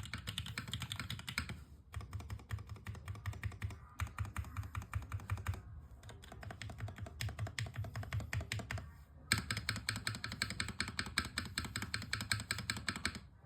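Fast typing on a Unikorn mechanical keyboard: a dense run of key clicks with short pauses about every two seconds.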